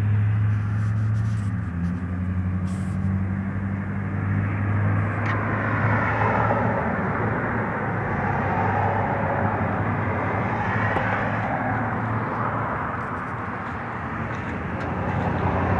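A passing motor vehicle: a steady low engine hum, with the vehicle's noise swelling about five seconds in and fading away after about eleven seconds.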